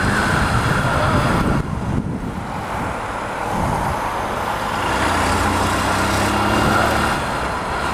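Steady riding noise from a Honda CBF125 motorcycle moving through city traffic: the small single-cylinder engine running under way, mixed with the sound of the road and the vehicles around it.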